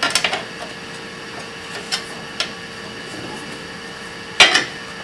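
Light clicks and taps of small hand tools handled while measuring and marking out a metal part, a cluster at the start and the loudest near the end, over a steady faint hum.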